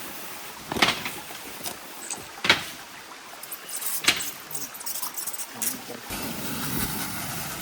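Three sharp knocks, about a second and a half apart, over a steady hiss.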